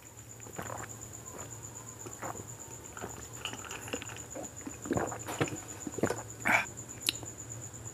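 Close-miked eating sounds of a person chewing a mouthful of food: irregular wet smacks and squelches, louder and closer together in the second half.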